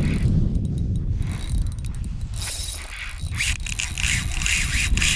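Fishing reel being cranked: a run of rapid ratcheting clicks over a low rumble, the clicking strongest in the second half.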